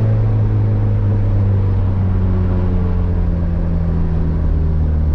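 Turbocharged Honda Civic engine running while driving, its pitch easing slowly down as the revs drop.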